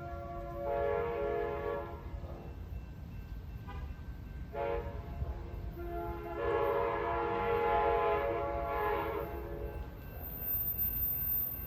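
Railroad locomotive's multi-chime air horn sounding: a blast of about two and a half seconds, a brief tap, then a long blast of about five seconds, over a steady low rumble.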